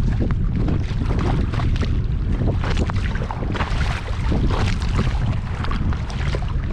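Kayak paddle blades dipping and splashing in lake water, in a run of short watery splashes, over a steady low rumble of wind buffeting the microphone.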